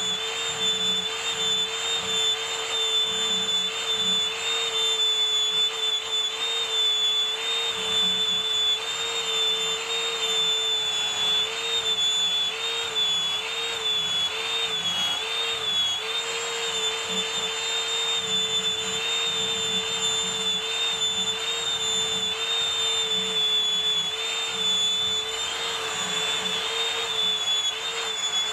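An electric power tool running steadily with a constant whine and hiss, its pitch dipping briefly a few times around the middle as it is pressed into the work.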